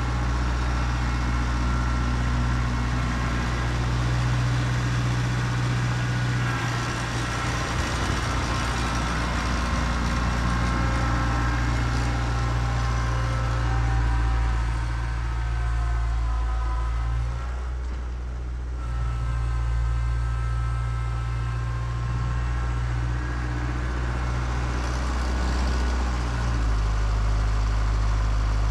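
Kubota B3030 compact tractor's diesel engine running steadily; its note dips briefly about two-thirds of the way through and steps up near the end.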